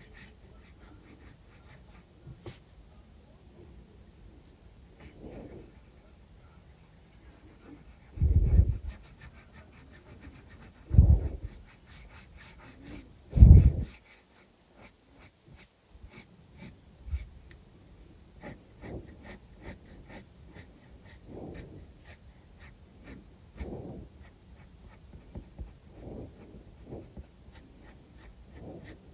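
Graphite pencil strokes scratching on sketchbook paper in quick, short, repeated strokes. Between about 8 and 14 seconds in come three louder, low bursts of rubbing or handling noise.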